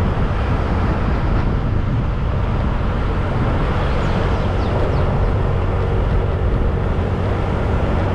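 A motorcycle being ridden along a road, its engine and the rush of travel making a steady, even noise.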